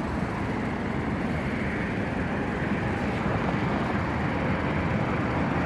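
Steady low rumble of vehicle noise, slowly growing louder.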